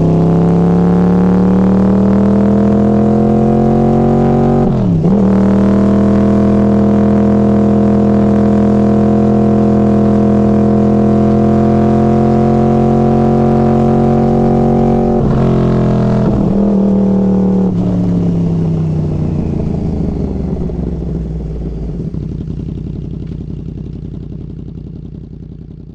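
Yamaha R1 crossplane inline-four through Hotbodies MGP Growler carbon slip-on exhaust cans, running under throttle. Its pitch climbs, dips sharply about five seconds in like a gear change, holds steady for about ten seconds, then drops away and fades as the engine winds down.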